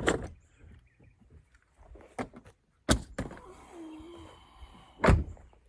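A few sharp knocks and thuds, four of them spread over several seconds, the last one the loudest.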